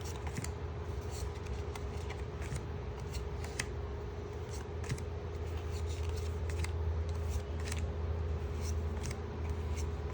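Pokémon trading cards being flipped through by hand, one card sliding past another in short, irregular flicks, over a steady low hum.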